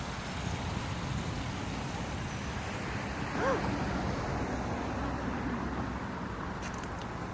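Steady rush of water falling over rocks, with a rumble in the low end. About halfway through there is one short chirp that rises and falls.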